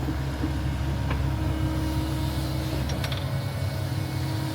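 Heavy equipment engine running steadily with a low, even drone, and a couple of light clicks about a second in and three seconds in.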